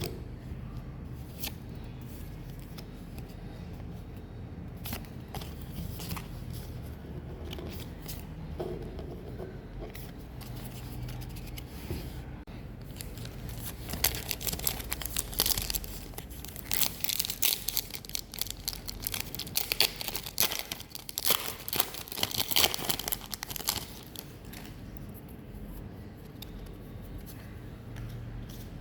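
Pokémon card booster packs being torn open: the foil wrappers crackle and crinkle in a dense run of sharp rustling through the middle of the stretch, with faint scattered handling clicks before it.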